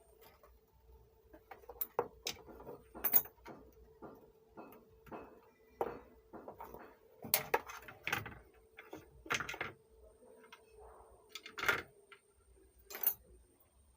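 Irregular clicks and knocks of tools and parts being handled during hands-on repair work on an amplifier, over a faint steady hum.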